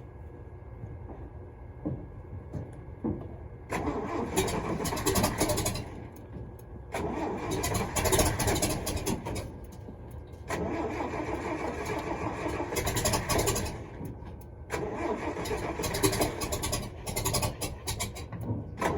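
A truck engine set up to run on wood gas, cranked by its starter in four tries of a few seconds each without catching.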